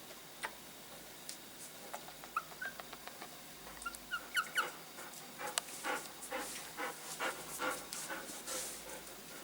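A pet animal's short, high-pitched squeaks: a couple about two seconds in and a quick run of them around four seconds in, followed by soft irregular clicks and rustling.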